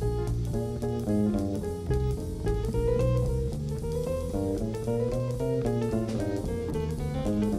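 Live jazz band playing: a quick, running melody line over a walking bass and drum kit with cymbals.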